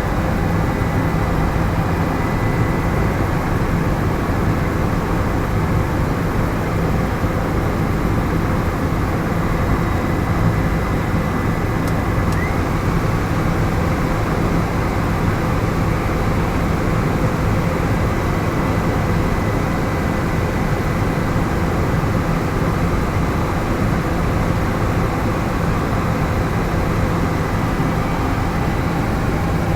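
Helicopter in flight, running steadily: a constant engine and rotor noise with a hiss that does not change.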